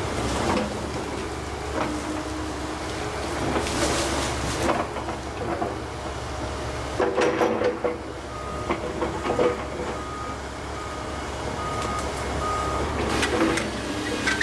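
Volvo ECR145 excavator's diesel engine running steadily under load, with loud cracks and knocks as it pulls up and handles trees. Partway through, a short beeping alarm repeats at an even pace for several seconds.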